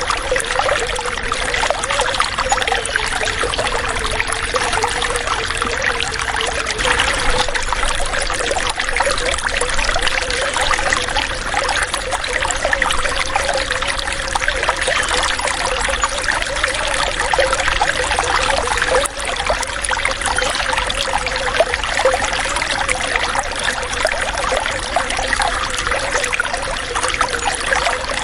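Water running and trickling, a steady babble that does not let up.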